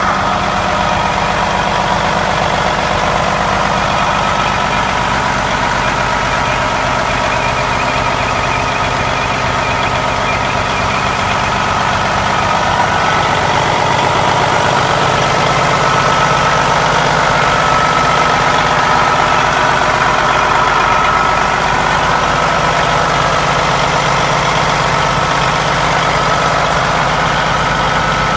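1992 Peterbilt 379 truck's diesel engine running steadily, a little louder for several seconds midway.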